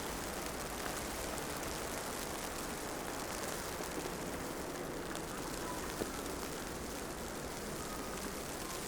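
Steady city street ambience during wet snowfall: an even wash of traffic noise and slushy, rain-like hiss, with a faint click about six seconds in.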